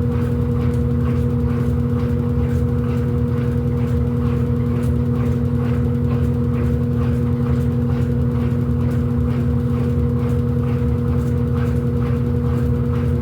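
Electrolux LED14 top-loading washing machine running with a steady motor hum and low rumble, unchanging throughout.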